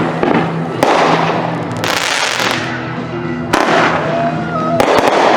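Consumer fireworks going off: three sharp bangs, about a second in, past the middle and near the end, each followed by a spell of crackling.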